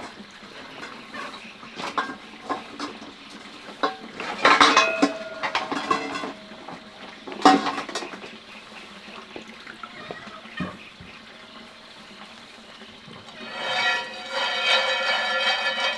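Cooking clatter of metal pots, pans and utensils: scattered sharp clanks and knocks, a busier burst of clanking a few seconds in with one strike ringing briefly, and another sharp hit soon after. Near the end a steady high-pitched squeal lasts for about two seconds.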